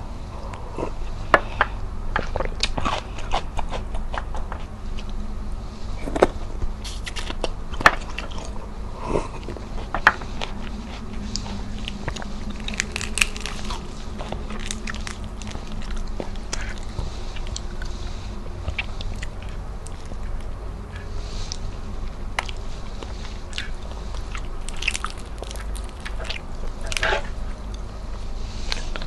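Close-miked chewing and crunching of crispy fried tilapia skin and fins, with many scattered sharp crackles and clicks.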